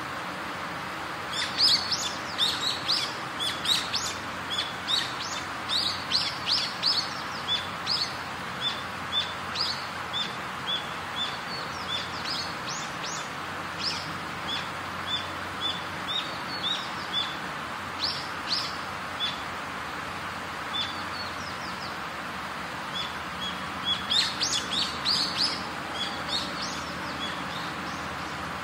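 Small birds chirping in quick runs of short, high calls, some dropping in pitch, over a steady background hiss. The chirping thins out about two-thirds of the way through, then comes back in a burst near the end.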